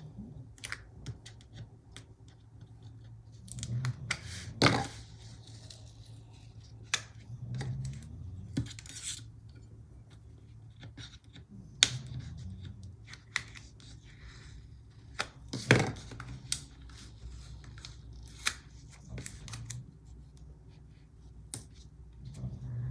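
Scattered small clicks, snips and short rustles of paper and sticker sheets being handled while stickers are peeled and pressed onto a planner page.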